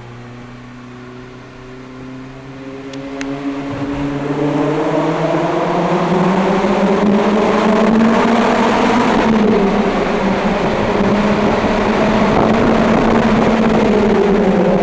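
Renault Clio RS with a 3-inch exhaust pulling up through the revs in a tunnel: the engine and exhaust note climbs slowly in pitch and gets much louder over the first few seconds, then holds loud and steady.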